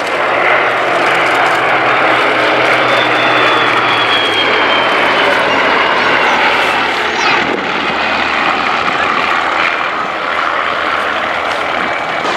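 Propeller warbirds flying past: the Bristol Blenheim's twin Bristol Mercury radial engines with two Spitfire Mk Is' Rolls-Royce Merlin engines, a loud, steady piston-engine drone. The engine note drops in pitch a few seconds in as the formation passes.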